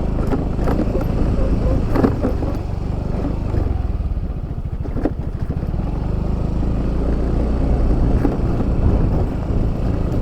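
Yamaha Fazzio scooter running on the move, a steady low engine and road rumble with a few short knocks.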